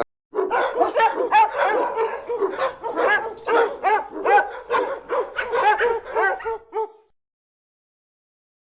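A dog barking in a quick run of short barks, about three or four a second, stopping about seven seconds in.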